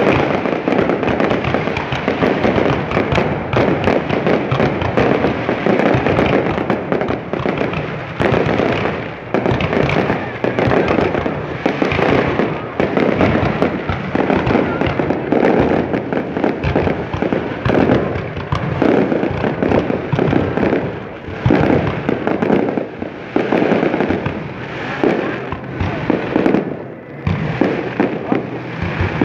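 Aerial fireworks display: shells bursting overhead in a rapid barrage of bangs and crackling, the bangs thinning to more separate bursts over the last third.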